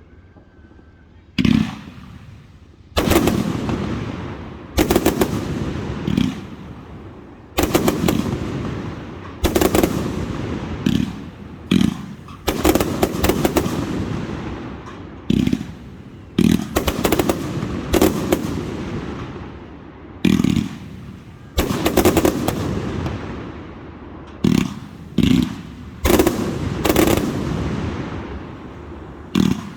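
Aerial display fireworks: shells bursting one after another, a loud boom every second or two, sometimes two or three close together, each fading away over about a second before the next.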